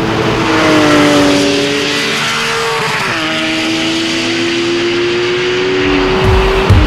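Porsche 911 GT3's 3.8-litre flat-six running at high revs on track. About three seconds in the pitch drops sharply, as with an upshift of the PDK gearbox, and then climbs steadily under acceleration. Another drop comes at the very end.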